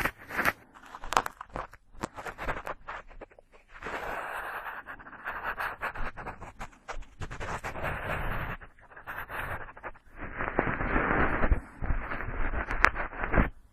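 Cotton swab swirling and rubbing inside an ear, picked up very close by a binaural microphone: scratchy rustling with small crackles and clicks, at first in short strokes, then in longer stretches of steady rubbing broken by brief pauses.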